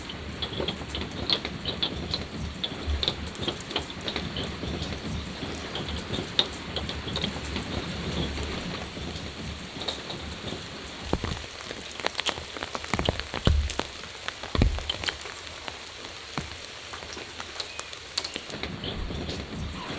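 Steady rain falling, with many individual drops tapping. A few heavier, dull thuds come about halfway through.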